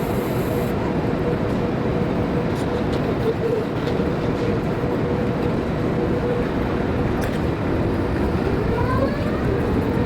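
Passenger train running, heard from inside the carriage: a steady rumble with an even hum.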